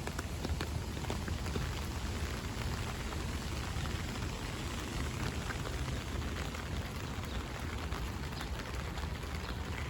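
Steady rain, with raindrops tapping on an umbrella overhead as many small scattered ticks over a steady low rumble.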